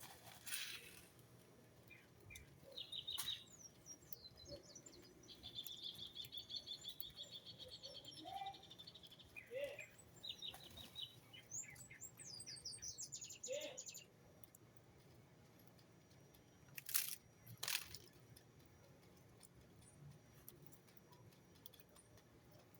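Small birds chirping, with a fast, even trill lasting a few seconds and quick sweeping calls, then two sharp clicks near the end.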